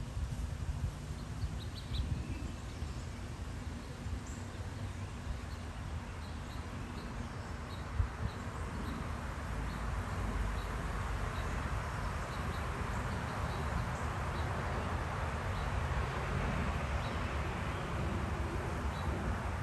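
Small backyard birds giving short, high chirps, roughly one or two a second, over a steady rushing background noise that swells a little about halfway through.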